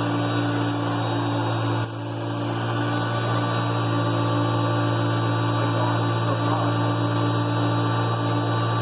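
Hoover Concept One upright vacuum cleaner running steadily as it picks up debris, a constant motor hum over a hiss of airflow, with a brief dip in level about two seconds in.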